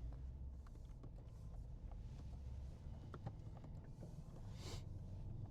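Low, steady rumble inside the cabin of a moving Mercedes-Benz CLS 550, with faint scattered clicks and creaks and a brief hiss near the end.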